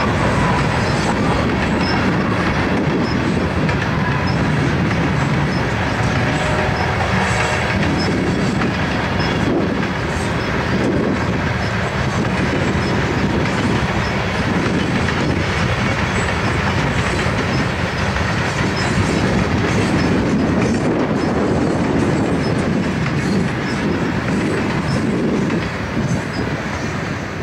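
Loaded freight cars (tank cars and covered hoppers) of a passing train rolling by: a steady rumble of steel wheels on rail with faint regular clicks. It starts to fade near the end.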